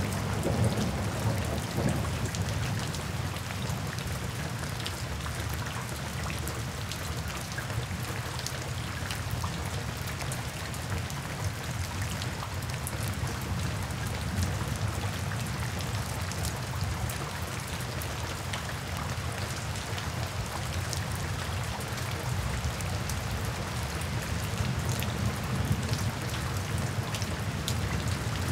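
Steady rain falling, with many fine drop ticks over a low rumble; a deeper roll of thunder eases off about two seconds in.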